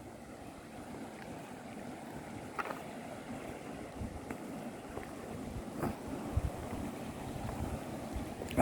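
Steady outdoor wind noise rushing on the microphone, with a few faint short ticks.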